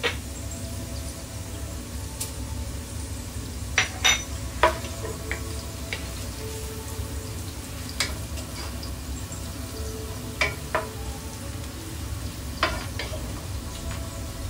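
Sliced onions sizzling in hot oil in a nonstick frying pan while a wooden spatula stirs them. Several sharp taps and scrapes of the spatula against the pan stand out, a cluster about four seconds in and more later on.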